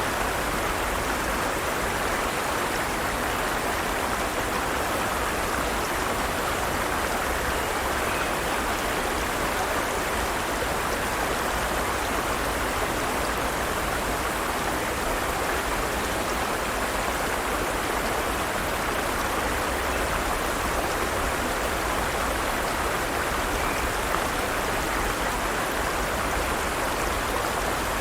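Forest stream running steadily over rocks: an even rush of flowing water.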